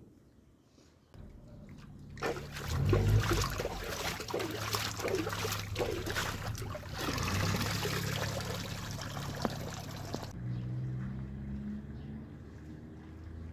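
Water splashing and trickling for several seconds, starting about two seconds in and easing off near the end, with a low steady hum underneath.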